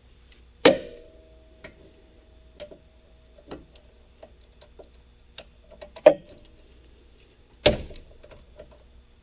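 Metal hand tools clanking and clicking. A sharp clank with a brief ring comes about a second in, light ticks follow, and two more loud clanks come near the end.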